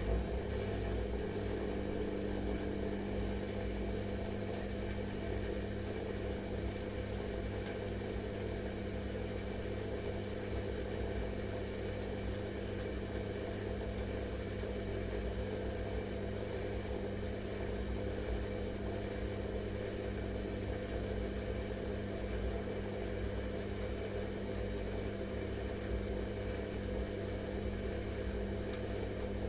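Washing machine running steadily: an even motor hum with a low rumble underneath and no change in pitch or level.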